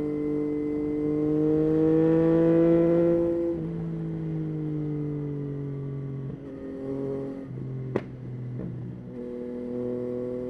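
Yamaha Tracer 9's 890 cc three-cylinder engine under way: its pitch rises under acceleration for about three and a half seconds, then the throttle eases and the revs slowly fall before holding steady near the end. A single sharp click comes about eight seconds in.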